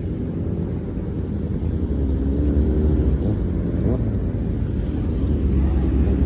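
Car engines running at low revs, with the pitch rising and falling briefly near the middle.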